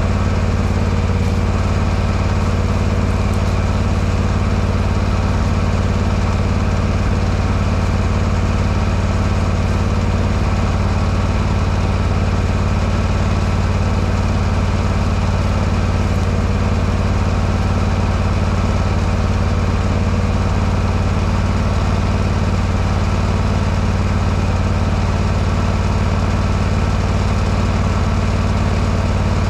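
A small engine or motor running steadily at one even speed, a constant low hum that never pauses or changes pitch.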